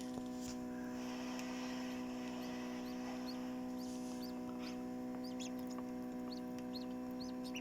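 Newly hatched ducklings peeping: a run of short, high peeps over the second half, over a steady electrical hum.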